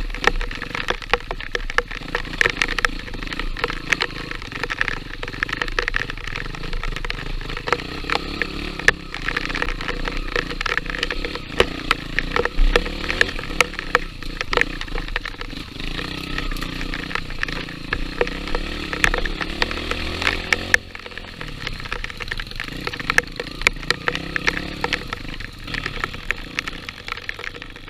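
Small single-cylinder engine running steadily, with many sharp cracks and knocks over it, and a drop in level about three quarters of the way through.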